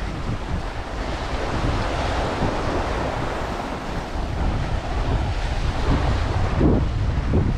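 Ocean surf breaking and washing up a sandy beach, one wave swelling in over the first few seconds, with wind rumbling on the microphone.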